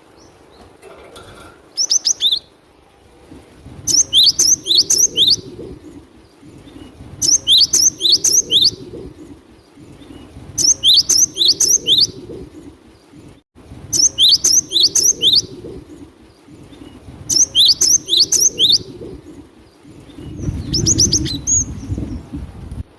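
Cinereous tit (glatik batu) singing: bursts of quick, high, down-slurred whistled notes, about six to eight notes in a burst, repeated roughly every three seconds.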